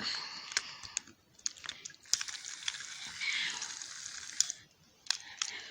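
Small sharp clicks and soft rustling as hands handle a plastic battery-powered toy train engine, fitting batteries into its compartment.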